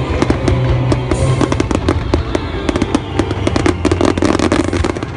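Fireworks bursting in rapid, overlapping bangs during the climax barrage of a display, over loud music playing with the show.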